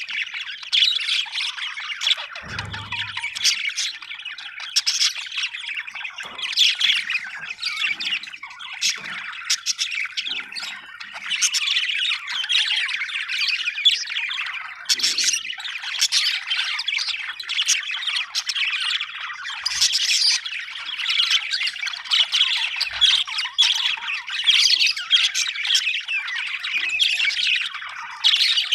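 Budgerigars chattering nonstop, a dense mix of overlapping chirps, warbles and squawks.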